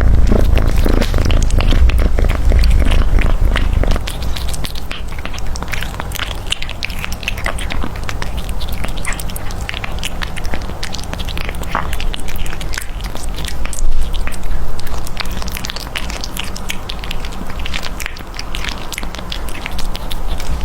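Close-up mouth sounds of a cat: quick, irregular wet clicks of chewing and licking, with a low rumble over the first four seconds.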